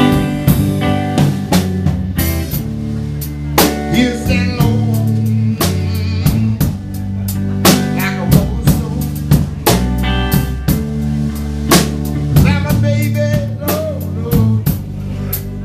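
Live instrumental music from a guitar-led trio: guitar notes over a drum kit keeping a steady beat with rimshots, and a low bass line underneath.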